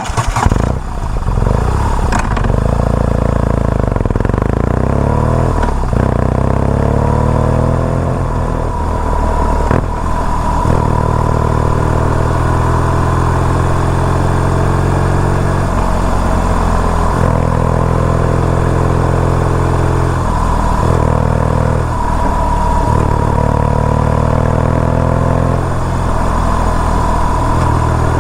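BMW R nineT Urban GS's boxer twin engine running under way, its pitch climbing through the revs and dropping back at each gear change and throttle lift.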